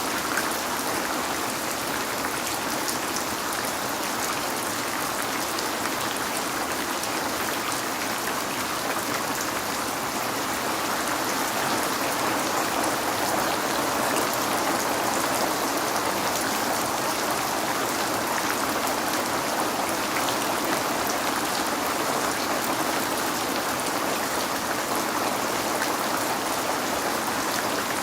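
Steady rain falling on a window, an even rushing hiss with fine ticks of individual drops through it.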